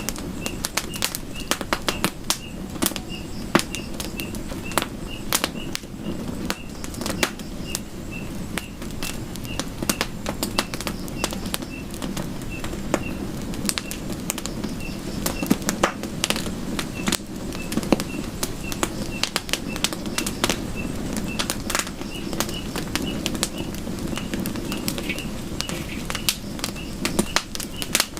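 Campfire crackling, with frequent sharp pops and snaps over a steady low rumble of burning wood. A faint high chirp repeats about once or twice a second throughout.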